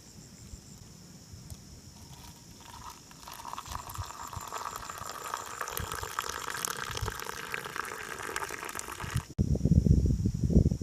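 Water running or splashing, building up from about two seconds in, over a steady chirring of crickets. Near the end it cuts off abruptly and gives way to a louder, low rustling.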